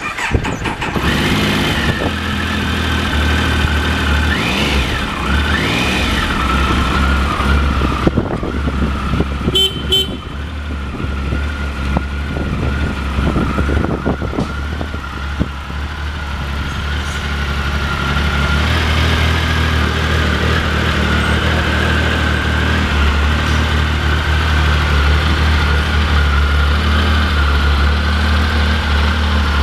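2003 Triumph Sprint 955i's fuel-injected three-cylinder engine catching at the start and then idling steadily. A higher tone rises and falls twice a few seconds in.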